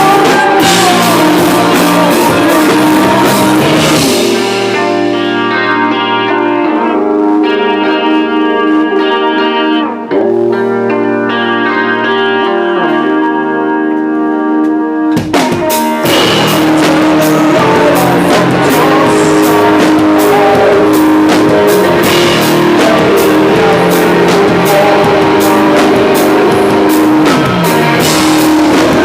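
Live rock band playing an instrumental passage: drums, bass and guitar play loud, then drop out after about four seconds, leaving guitar chords ringing alone, before the whole band crashes back in about fifteen seconds in.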